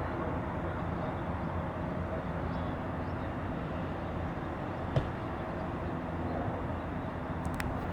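Steady jet engine noise from a Boeing 787-8 Dreamliner rolling or taxiing after landing, heard at a distance, with one sharp click about five seconds in.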